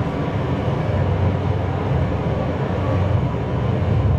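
A steady, loud low rumble with no clear pitch, its energy deep in the bass.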